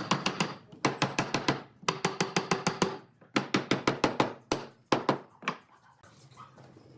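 Rapid hammer strikes on wood, about six a second, in runs of several blows with short pauses between them, dying away about six seconds in.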